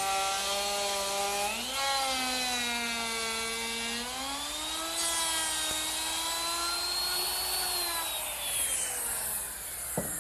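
Table saw running free just after a rip cut through wood, its motor whine stepping up in pitch twice, then falling steadily as the blade spins down after being switched off about eight seconds in.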